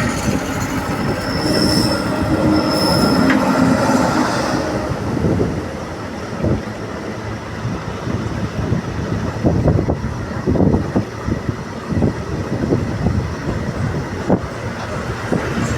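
Train running on the track as it gathers speed. Thin wheel squeals sound in the first few seconds, then the wheels clack and knock unevenly over the rail joints.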